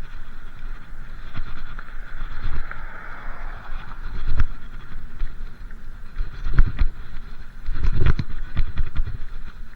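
Riding noise from a bike-mounted or handheld camera: wind rumbling on the microphone, with irregular knocks and thumps from bumps in the ride, the loudest about four and a half, six and a half and eight seconds in.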